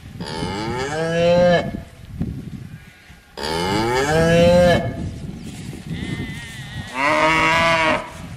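Cow mooing three times, each call a drawn-out low moo that bends down in pitch as it ends.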